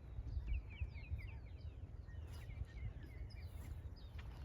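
Small wild birds chirping in quick runs of short, high notes, over a steady low rumble.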